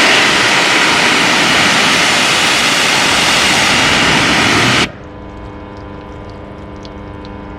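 A water jet spraying onto car paint as a loud, steady hiss for about five seconds, then cutting off suddenly.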